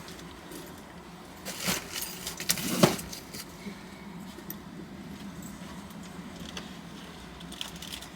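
A short run of clinks and rattles from small hard objects being handled, loudest about three seconds in, with a couple more faint clicks near the end, over a low steady hum.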